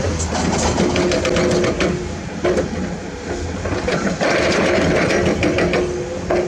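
Heavy construction machinery, excavator and dump-truck diesel engines, running with a steady hum and whine over many sharp clanks and rattles. It drops somewhat quieter about two seconds in and picks up again about four seconds in.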